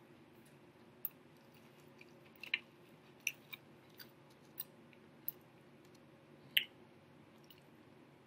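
A person chewing a chicken sandwich with scattered sharp mouth smacks, about eight in several seconds, over a faint steady low hum.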